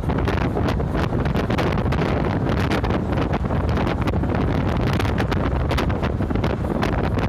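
Wind buffeting the microphone over the steady low rumble of a moving bus, with many short rattles and gusts.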